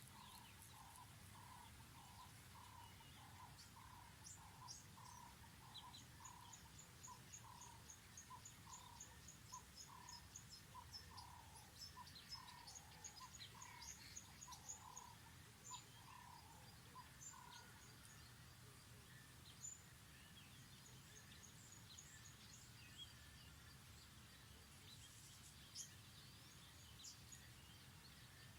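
Faint birdsong over a steady low background hum. A low call repeats a little more than once a second and stops about two-thirds of the way through. Higher, quick chirping runs in series through the middle, and a few single chirps come near the end.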